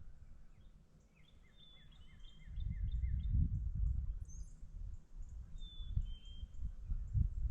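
Songbirds calling across the lake, with short chirps and a repeated falling note. From about a third of the way in, a louder low rumble with thumps sits under the birds, like wind or handling on the microphone.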